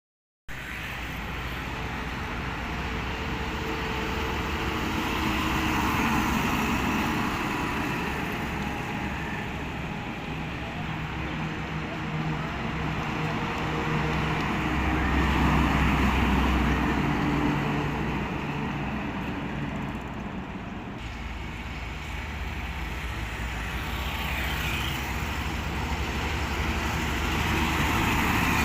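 Truck engine running amid road traffic noise, the sound swelling and fading in loudness over time.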